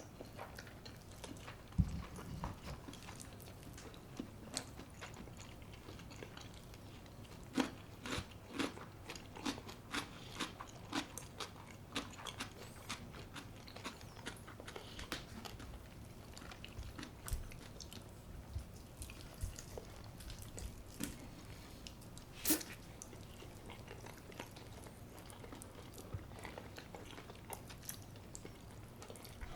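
Close-miked eating: a person biting and chewing, with many short crunchy and wet mouth clicks at irregular intervals.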